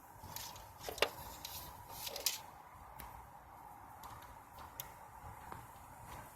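Sparse clicks and light knocks of hand work on a car battery's negative terminal while a wire's connector is fitted, the sharpest about a second in and around two seconds in, over a faint steady hum.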